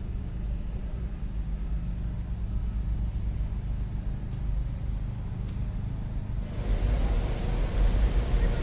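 Low, steady rumble of vehicle traffic. About six and a half seconds in, a louder vehicle comes close, adding a hiss and a steady hum.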